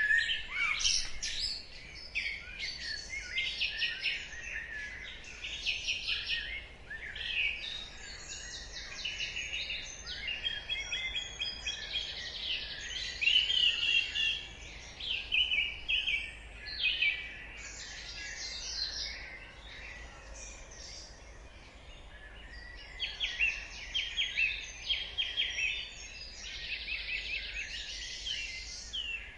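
Dawn chorus: several songbirds singing at once, overlapping chirps, trills and rapid runs of high notes, thinning for a few seconds past the middle before picking up again.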